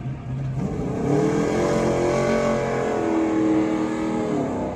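NASCAR Truck Series race trucks' V8 engines going by at speed, several at once, their pitch rising and then sliding down as they pass.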